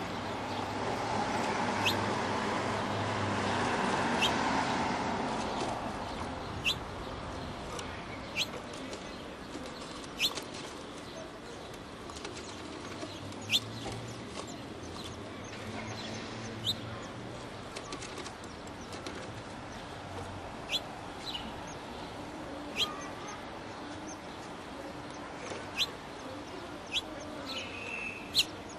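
Small bird chirping: short, high single chirps every second or two over a steady outdoor hiss, with a swell of rushing noise in the first few seconds.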